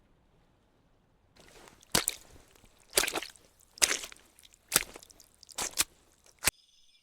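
A series of sharp snapping strikes, about one a second, over a rushing hiss; the sound cuts off suddenly near the end.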